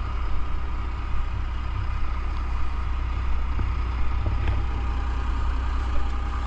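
A heavy gravel truck's diesel engine idling steadily, with a few faint clicks over it.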